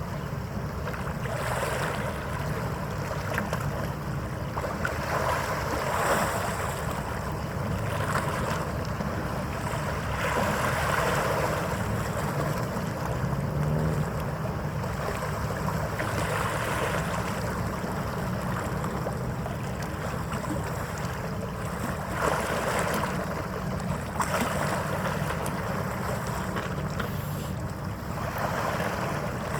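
Harbour water washing in uneven swells every few seconds, with wind buffeting the microphone over a low, steady rumble.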